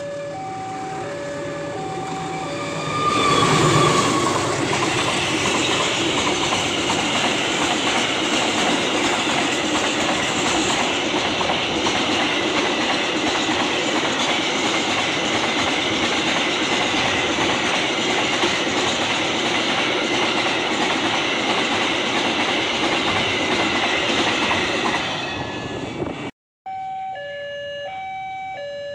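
Level-crossing warning alarm sounding two alternating tones. A few seconds in, a train passes close by with a loud, steady rushing noise of wheels on the rails that lasts over twenty seconds. Near the end it breaks off and the two-tone crossing alarm is heard again.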